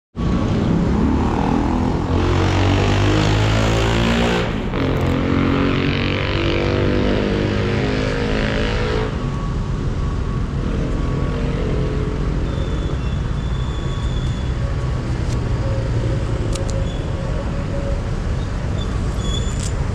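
Yamaha R15M's 155 cc single-cylinder engine running. Its pitch rises and falls in the first half as the throttle is blipped, then it settles to a steady idle.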